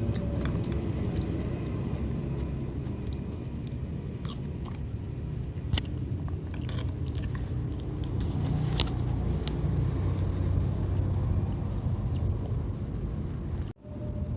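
Close-miked mouth sounds of someone biting and chewing soft fruit: wet smacks and clicks, most of them in the middle stretch. A steady low rumble runs underneath, and the sound cuts out for a moment near the end.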